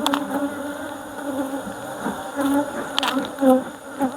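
Honeybees buzzing close around the microphone from an opened hive, individual bees flying past with their pitch rising and falling. Two sharp clicks, one at the start and one about three seconds in.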